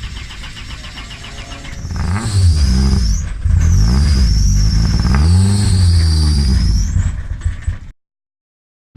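Car engine revving hard, its pitch rising and falling several times, with a high wavering squeal over it as the car is driven hard. The sound builds about two seconds in and cuts off abruptly near the end.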